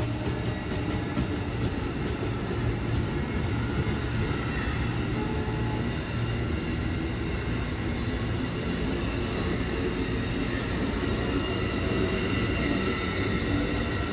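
A train's cars rolling steadily past on the rails, with faint high-pitched wheel squeal over the rumble.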